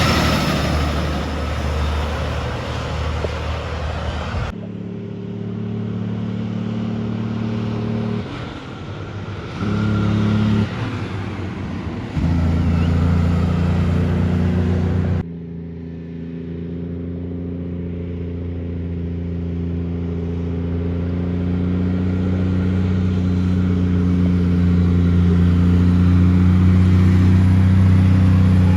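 Heavy cabover truck diesel engines heard in spliced roadside clips. First a truck passes with engine and road noise. After sudden cuts about four seconds in and about halfway, an engine runs with a steady pitch and grows slowly louder toward the end.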